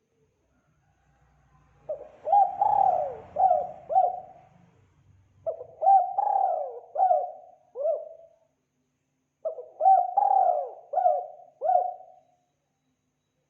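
Spotted dove (tekukur) cooing: three phrases of about four coos each, a couple of seconds apart, each coo swooping down in pitch.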